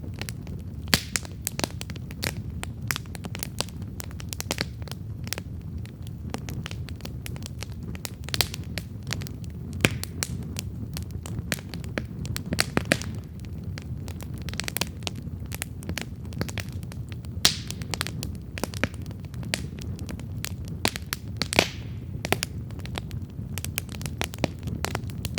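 Wood campfire burning, a steady low rumble of flame under frequent irregular crackles and sharp pops from the burning wood, a few of them markedly louder.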